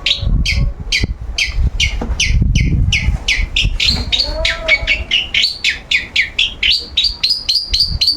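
Long-tailed shrike (cendet) calling non-stop: a rapid series of short, high notes that each slide downward. They come a little over two a second at first and quicken to about four a second in the second half. A low rumble sits beneath them about two seconds in.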